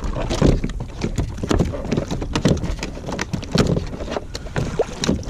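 A hooked redfish being landed beside a kayak: irregular splashing, sloshing and knocks against the hull as the fish thrashes and is handled.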